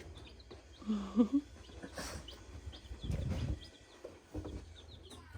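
Chickens clucking and peeping, with short high chirps scattered throughout and a brief, louder low call about a second in.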